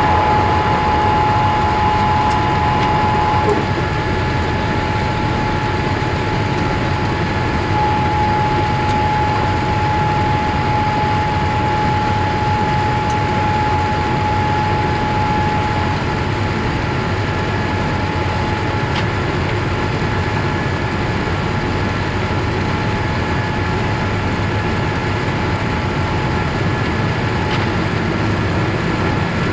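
Boeing 787-8 Dreamliner's jet engines at takeoff power heard inside the cabin: a loud, steady rushing noise with a steady whine that fades out about halfway through.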